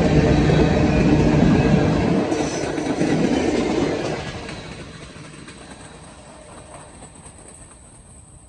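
Tank cars of a Norfolk Southern manifest freight train rolling past at close range, steel wheels running on the rails. Loud at first, then much quieter from about four seconds in.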